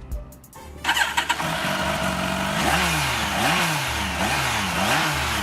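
Motorcycle engine starting about a second in, then revved up and down several times.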